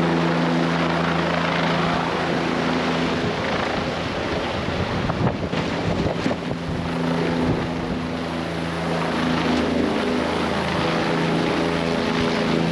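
Helicopter running close by, a steady rotor and engine drone. For a few seconds in the middle the drone gives way to a gusty rush of wind noise, then returns.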